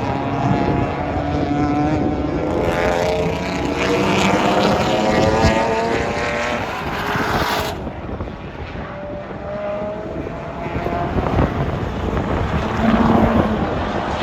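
Race car engines accelerating on track, the engine note climbing steadily in pitch in long sweeps, with a break in the sound about eight seconds in.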